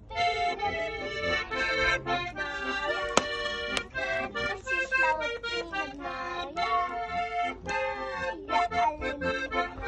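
Steirische Harmonika, a Styrian diatonic button accordion, playing a folk tune in full chords, in short phrases with brief breaks between them.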